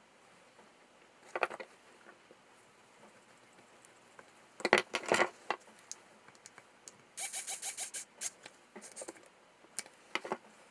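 Hand tools and small metal parts handled on a workbench: scattered clicks and knocks, loudest about five seconds in, with a quick run of bright clicks a little later.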